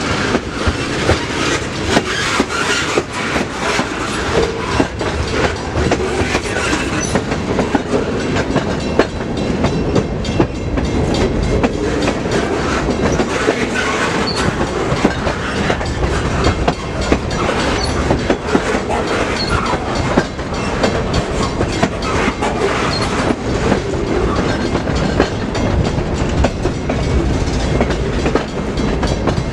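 A freight train's cars rolling past close by, with steady wheel clatter over the rail joints.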